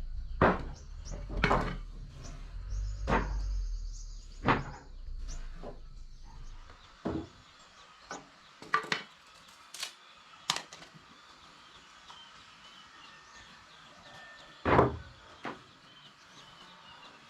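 Irregular knocks and clunks of wood being handled, a dozen or so scattered through, with a low rumble under the first few and one heavier knock near the end.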